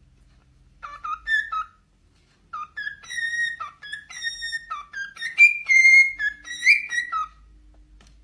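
A pet bird whistling a string of short notes, some sliding up or down: a brief group about a second in, then a longer tuneful run.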